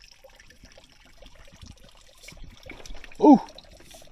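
Spring water trickling and pouring steadily into the creek. About three seconds in, a man lets out a short, loud "Ooh!"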